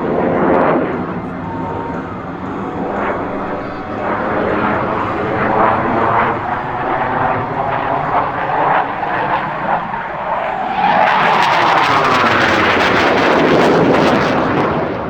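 Jet noise from the M-346 Master's twin turbofan engines during a display pass. It grows loudest from about 11 seconds in, with a sweeping drop in pitch as the jet goes by, then fades near the end.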